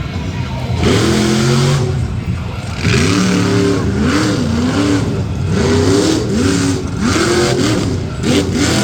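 Monster truck engine revving hard in repeated bursts during a freestyle run, its pitch sweeping up and dropping back again and again.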